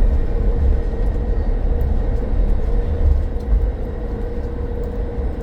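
Inside a battery-electric BYD BD11 double-decker bus on the move: a steady low rumble of the running bus with a constant hum held at one pitch.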